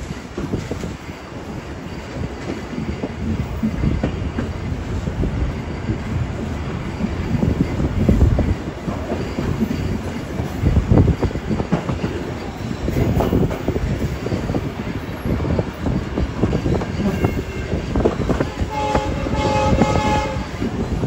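Heritage railway carriage running along the track: a steady rumble with irregular wheel clatter over the rails. Near the end the train horn sounds once for about a second and a half.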